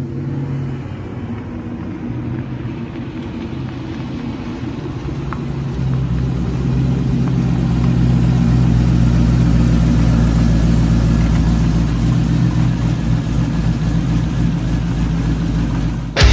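Supercharged 5.3-litre LS V8 of a Fox-body Mustang running as the car drives slowly up to the microphone. The engine grows louder about six seconds in, then holds steady and low.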